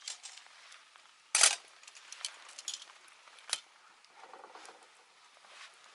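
Light clicks and clatter of cooking gear being handled, with one sharp clatter about a second and a half in and a smaller click a couple of seconds later.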